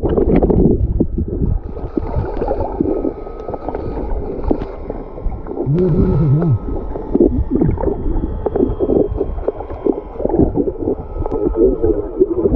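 Water gurgling and sloshing, with short wavering low tones about six seconds in.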